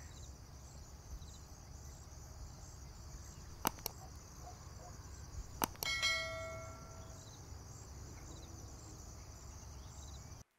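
Crickets chirp steadily in the background, with a few sharp clicks. About six seconds in comes a single bell-like ring that fades over about a second.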